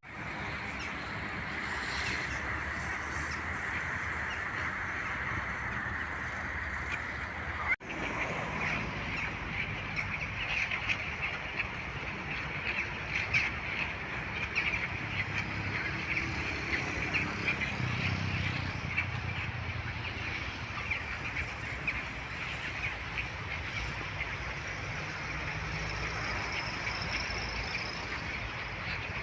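A large flock of waterfowl calling continuously, many birds overlapping in a dense chatter. The sound cuts off abruptly and restarts about eight seconds in.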